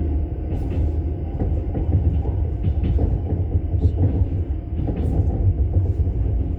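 Steady low rumble of a moving vehicle, with scattered light clicks.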